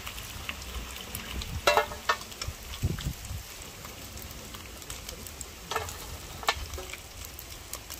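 Chicken back pieces frying in hot oil: a steady sizzle. Sharp knocks come about two seconds in and again around six seconds in.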